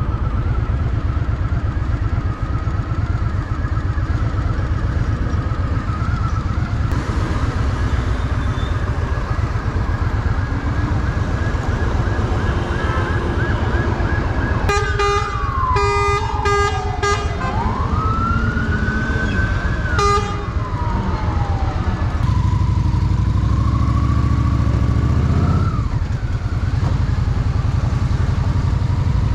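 Honda Shadow VT750 V-twin engine running under way. About halfway through an emergency vehicle siren wails, its pitch falling, rising and falling again, with rapid pulsed horn blasts over its first few seconds; it dies away a few seconds before the end.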